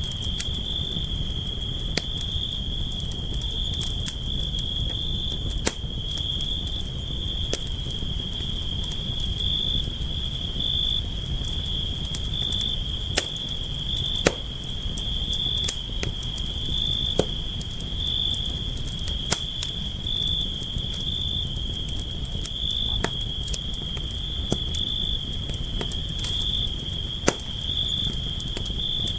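Campfire crackling, with irregular sharp snaps and pops over the low rumble of the burning wood. Crickets trill steadily in the background as one continuous high tone.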